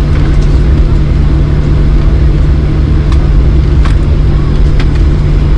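Boeing 737-800 cabin noise in flight: a loud, steady low rumble of engines and airflow with a constant hum, and a few faint clicks.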